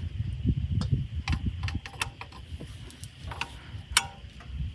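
Scattered sharp clicks and taps of hand tools on an engine, about six in all at uneven spacing, the loudest about four seconds in, over a low rumble.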